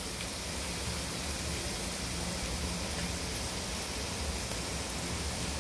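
Diced carrot, capsicum, green peas, onion and tomato sizzling steadily in hot oil in a frying pan.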